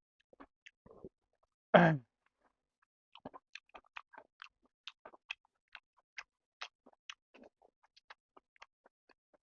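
Close-up eating sounds: chewing and mouth clicks while eating chicken and rice, a scattered run of short, soft wet clicks. One louder, brief noise comes just under two seconds in.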